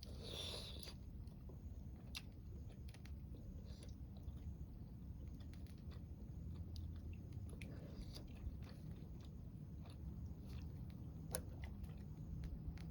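Someone chewing food close to the microphone, with scattered small clicks and a brief rustle right at the start.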